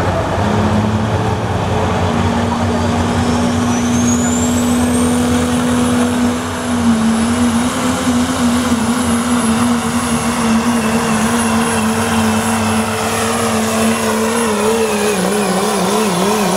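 Turbocharged diesel pickup engine at full throttle pulling a sled, with a 3-inch-inlet turbocharger whining. The whine climbs to a high steady whistle over a few seconds and then holds. Near the end the engine pitch wavers up and down.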